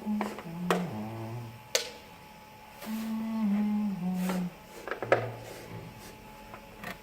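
A man humming a slow tune in a few held notes that step downward, in two short phrases. Between them come sharp scrapes and taps as sand is scooped with a cut-down plastic bottle and poured through a plastic jug funnel.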